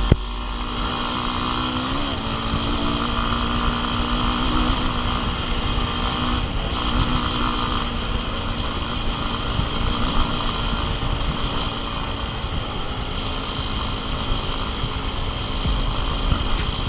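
Enduro dirt bike engine running at a fairly steady pitch, with a constant low rumble.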